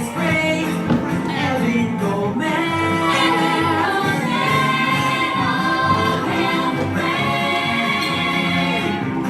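Show tune with several voices singing together, holding long notes over an instrumental backing.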